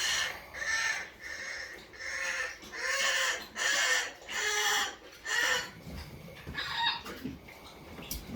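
A pet bird giving a series of about seven harsh, rasping calls, roughly one every 0.7 seconds, then falling quiet apart from a few soft knocks near the end.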